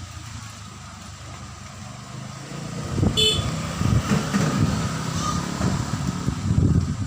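Strong gusty wind buffeting the microphone, swelling loud about three seconds in and staying gusty until near the end. A short high toot sounds just as the gusts pick up.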